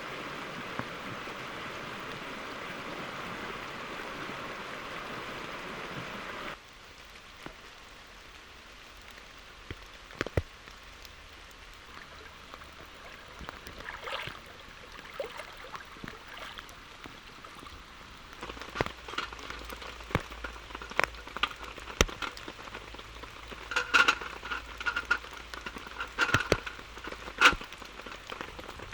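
Steady hiss of rain for the first few seconds, cut off abruptly. Then scattered raindrops tap one by one on a surface, growing denser near the end.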